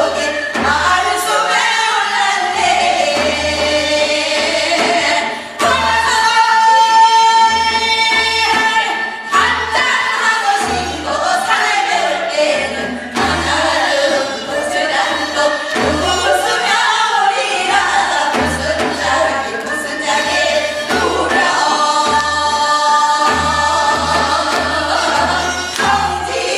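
Singers performing a Gyeonggi hwimori japga, a fast-paced Korean folk song, together in chorus over a regular low drum beat.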